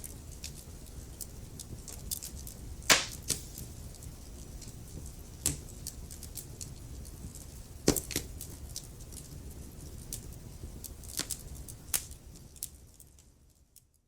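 Wood fire crackling in a fireplace: irregular sharp pops and snaps over a low, steady rumble of the flames, with two louder pops about three and eight seconds in. The sound fades out near the end.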